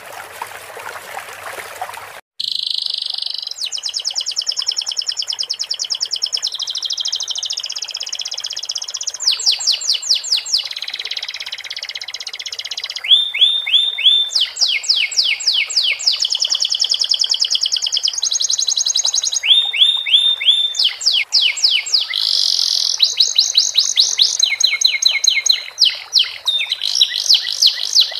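Water trickling for about two seconds, then a sudden change to a domestic canary singing without pause: a long song of fast trills and runs of quick downward-sweeping whistles, a canary trained on the song of the sikatan londo flycatcher.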